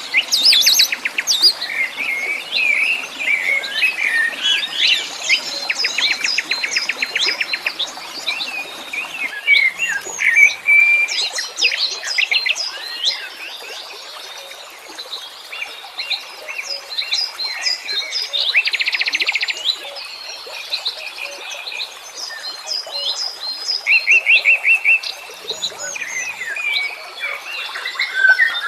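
A chorus of wild songbirds chirping and singing, many calls overlapping, with several fast rattling trills. It thins out briefly about halfway through before filling in again.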